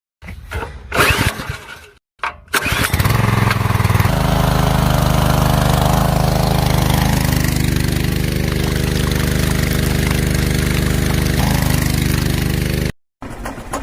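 Miniature diesel engine being started: a brief spluttering burst, then it catches about two seconds in, picks up speed and runs steadily at an even pitch. It cuts off suddenly near the end.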